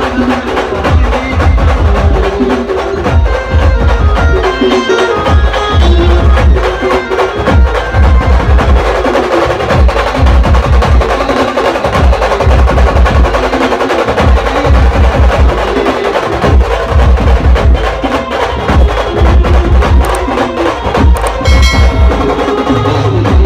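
A band playing a song on keyboard and drums, with a melody over heavy, regularly repeating bass-drum beats and busy percussion.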